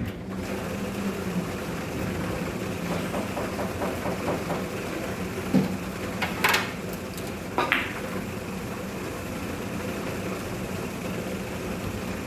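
Steady low mechanical hum, with a few sharp clicks of billiard balls striking about halfway through.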